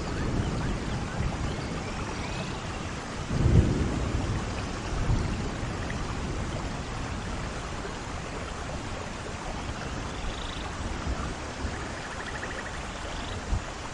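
Steady heavy rain with rolling thunder: a low rumble swells about three and a half seconds in, a smaller one follows a second and a half later, and both fade back into the rain.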